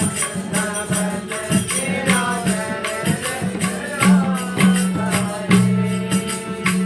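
Devotional bhajan singing at a satsang: a singing voice over a steady held low note, with rhythmic percussion and jingling shaker or tambourine strokes.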